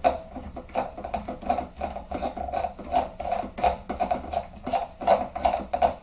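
A long screw being turned out of the stock of an SRC G36K airsoft gun with a screwdriver: a run of short, irregular clicks and squeaks, roughly three or four a second.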